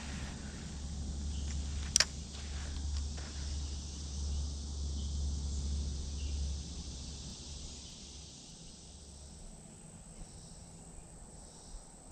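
Steady chirring of insects, with a low rumble under it that fades out about halfway through. A single sharp click comes about two seconds in.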